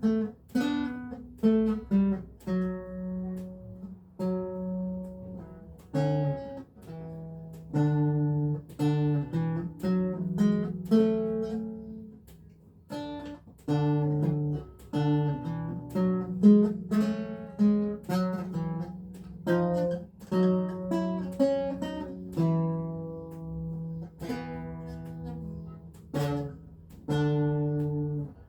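Renaissance lute playing German Renaissance music at an unhurried pace: single plucked notes and chords, each sounding sharply and ringing away, with a few chords left to sustain.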